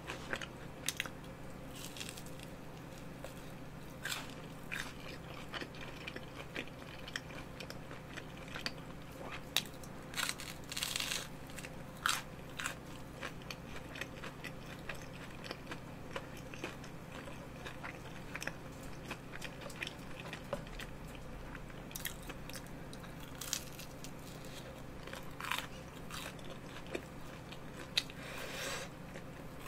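Close-miked biting and chewing of food from a wooden skewer, crunchy with scattered crisp crackles.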